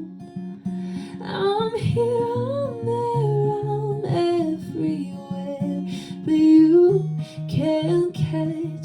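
Acoustic guitar accompaniment with a solo voice singing a slow melody over it, holding and sliding between notes.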